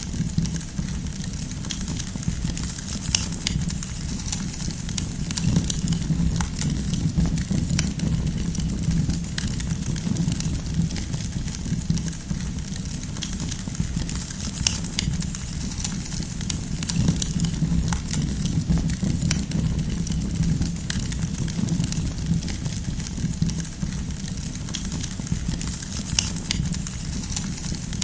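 Wood campfire burning: a steady low rush of the flames with frequent sharp crackles and pops from the firewood, scattered unevenly.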